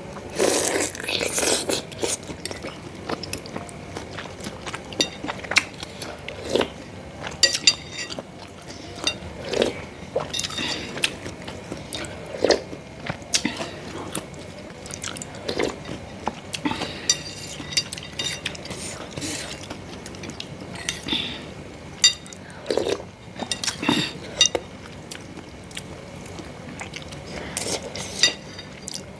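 Close-up eating sounds of spicy meatball soup (bakso): chewing and biting, with a spoon now and then clicking and ringing against the bowl.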